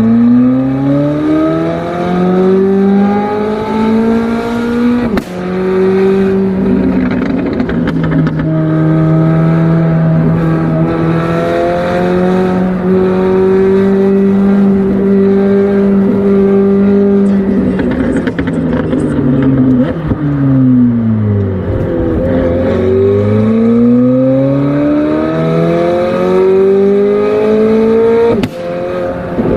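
McLaren 765LT's twin-turbo V8 accelerating hard, its pitch climbing for about five seconds until a sudden drop at a gear change. It then holds steady revs for about ten seconds, falls away as the car slows, and climbs again to another shift near the end.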